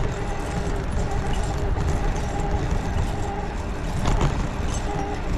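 Wind rushing over the microphone and tyre rolling noise from a bicycle being ridden, with a faint hum that comes and goes.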